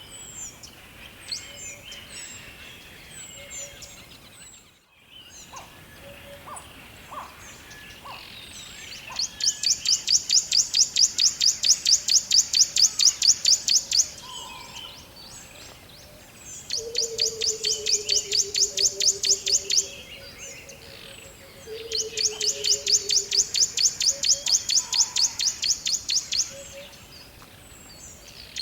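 Forest birds chirping, with a high, very fast trill of rapid repeated notes that lasts a few seconds and comes three times, starting about nine seconds in. Under the second and third trills a lower whistle slides gently down in pitch.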